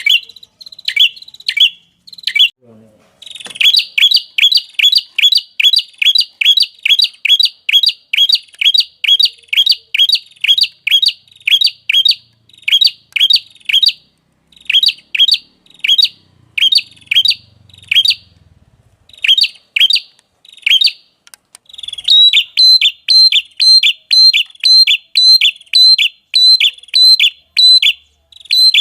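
A small songbird calls a rapid series of sharp, downslurred chirps, about three a second, broken by short pauses. From about two-thirds of the way in, each chirp starts with a brief higher note.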